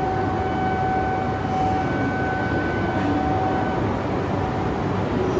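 An E3-series Shinkansen set stands at the platform with a steady, dense rumble. Over the rumble, a steady high tone sounds for about four seconds and then fades.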